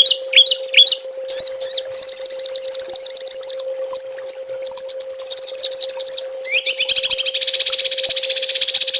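Small songbirds singing rapid, sharp trilled 'tembakan' bursts: a few falling chirps, then fast high trills in several phrases, the longest and densest starting about six and a half seconds in. A steady faint tone hums underneath.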